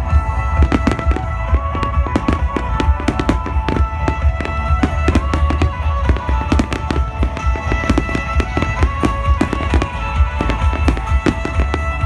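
Fireworks display: many firework bangs and crackles in quick succession over a continuous deep rumble, with music playing alongside.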